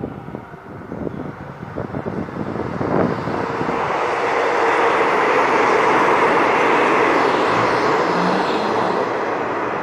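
A passenger train hauled by a diesel locomotive passing close by. Its engine hum and the rumble of the coaches build from about three seconds in to a loud, steady peak and ease slightly near the end. Wind gusts on the microphone can be heard at the start.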